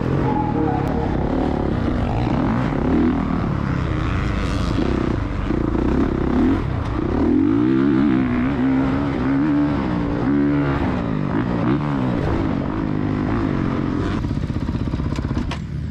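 Dirt bike engine revving up and down repeatedly, its pitch climbing and falling as it rides through the gears.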